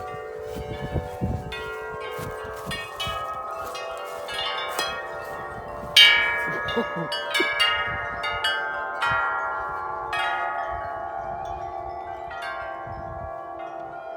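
Several large tuned tubular wind chimes struck again and again by gusting wind, their overlapping notes ringing on, with the loudest strike about six seconds in. Wind rumbles on the microphone underneath.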